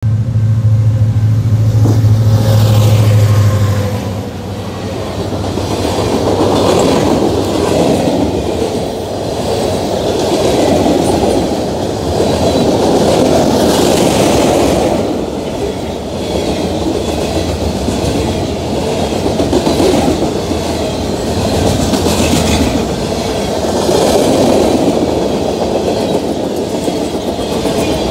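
Freight train of tank cars rolling past, a continuous rumble with wheels clacking on the rails and now and then a brief high screech. A loud low drone fills the first four seconds, then fades into the rumble.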